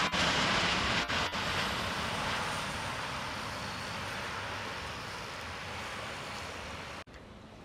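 Jet airliner's engine noise, a loud steady rush that slowly fades, cut off abruptly about seven seconds in by a quieter background hiss.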